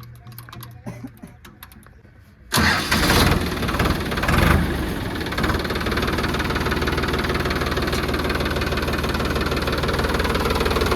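A few faint clicks, then a tractor's diesel engine starts suddenly about two and a half seconds in, surges twice and settles into a steady idle.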